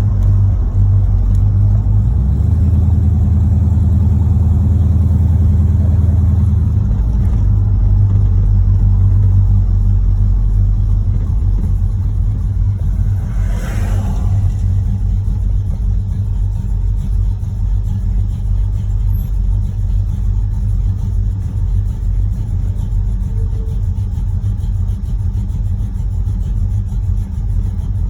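1986 Chevrolet Monte Carlo SS's 355 small-block V8 running as the car is driven, louder for a few seconds near the start, with a brief rushing noise about halfway through. The engine has a rod knock in its bottom end.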